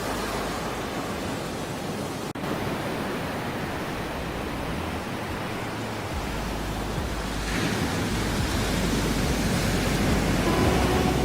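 Ocean surf: a steady rushing wash of waves that swells louder about two-thirds of the way through, with a momentary break about two seconds in.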